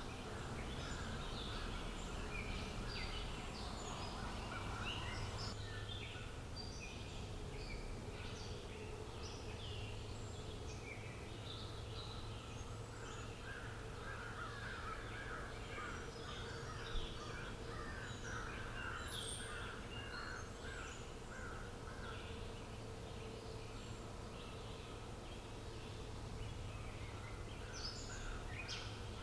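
Outdoor ambience full of wild birdsong: many birds chirping and trilling at once over a steady low background rumble, with one sharp click partway through.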